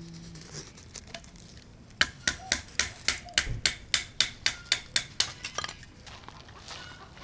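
A quick run of about fifteen sharp knocks, roughly four a second, starting about two seconds in and stopping near the end: a blade chopping thin sticks of kindling for a campfire.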